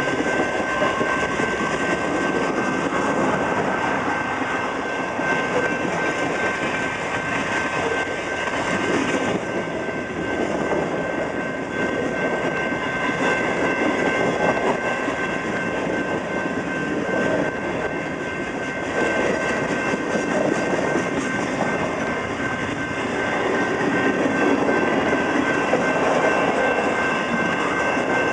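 Slow Canadian National freight train rolling past, the wheels of its covered coil cars and loaded flatcars rumbling and clattering over the rails. The noise swells and eases, with a thin steady high tone running through it.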